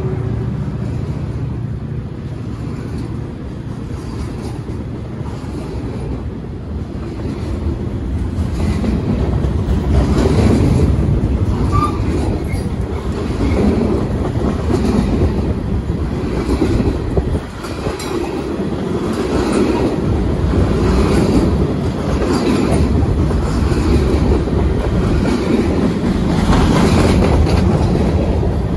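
Loaded freight gondola cars rolling past close by: a steady heavy rumble of steel wheels on rail, with a regular clickety-clack as the wheel trucks cross rail joints.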